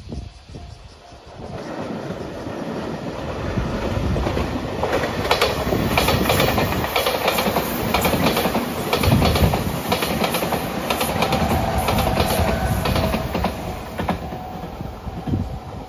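A JR 8000 series electric limited-express train, eight cars long, passing close by on the track. Its wheels beat a run of clicks over the rail joints, growing louder as it approaches, loudest as the cars go by, and fading near the end.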